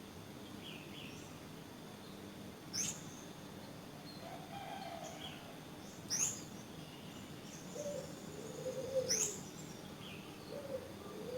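Several birds calling: three loud, sharp, high calls sweeping downward about three seconds apart, over repeated low rise-and-fall cooing calls from the middle on and faint higher chirps, against a steady soft background hiss.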